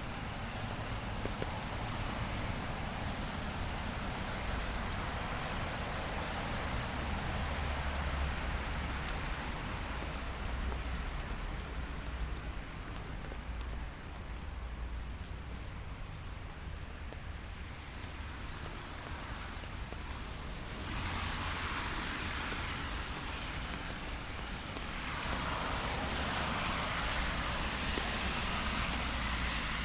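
Steady rain falling on a city street, with a low rumble of traffic underneath. Two swells of tyre hiss on the wet road, in the last third, as vehicles pass.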